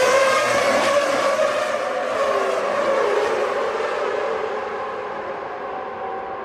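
Several Formula One car engines at high revs going past, with their pitches sliding down and the sound fading as the cars draw away.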